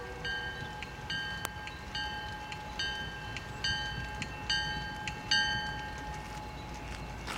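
A diesel freight locomotive's bell rings steadily, a little less than once a second, and the strikes weaken over the last couple of seconds. A low locomotive rumble sits underneath, and a horn note dies away in the first half second.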